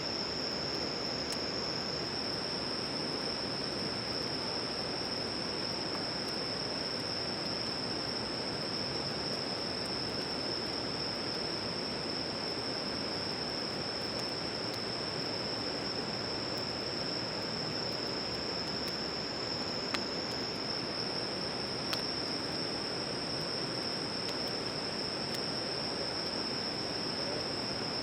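Crickets and other insects trilling steadily at a constant high pitch, with a second, higher insect voice that changes about two seconds in and again about two-thirds of the way through, over a steady hiss. Two brief clicks stand out about two-thirds of the way through.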